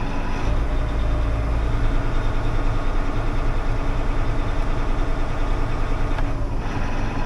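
Farm machine's engine running steadily, with a deeper low rumble for about a second near the start, while hydraulic pressure is put on a stuck fold. The fold stops short, which the farmer takes for a seized part filled with rusted fertilizer.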